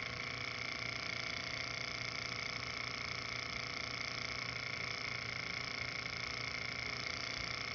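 Small hot-air Stirling engine running fast, a steady hum as its flywheels and pulleys spin a small generator.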